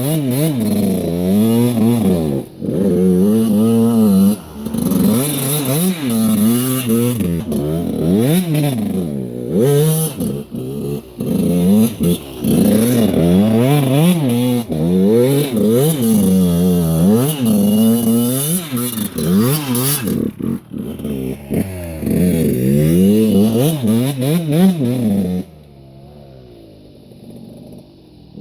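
Dirt bike engine revving hard up and down, over and over, then falling away to a faint low sound about three seconds before the end.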